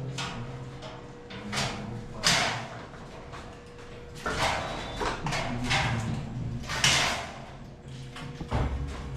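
Metal ceiling framing being worked by hand: a series of short, harsh scraping and sliding noises of metal on metal, about six in all, over a low steady background hum.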